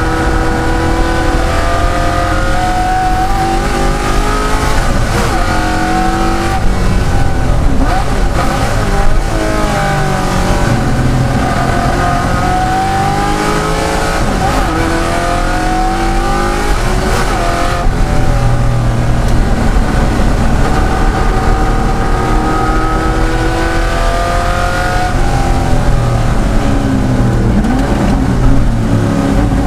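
De Tomaso Pantera's Ford V8 racing engine at full throttle, its note climbing under acceleration and dropping back as it slows for corners, several times over.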